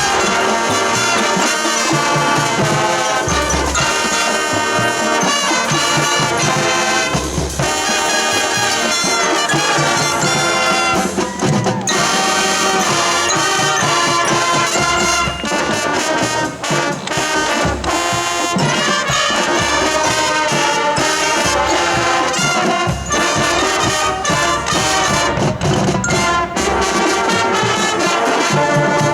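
High school marching band playing its field show: trumpets and trombones carry the tune over recurring low drum hits.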